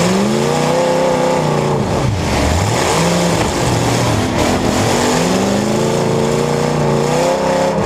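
Demolition derby cars' engines revving hard, pitch rising and falling over and over as they accelerate and back off, with a sharp drop and climb about two seconds in.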